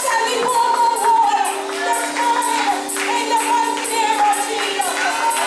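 Gospel music: sustained chords under a wavering lead melody, with a tambourine struck on a steady beat about twice a second.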